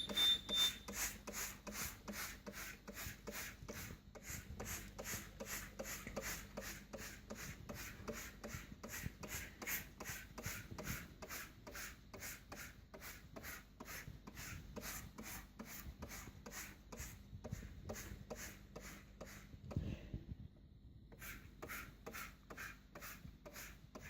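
Trigger spray bottle of Ajax cleaner being squeezed again and again, a short spritz about two or three times a second, stopping near the end.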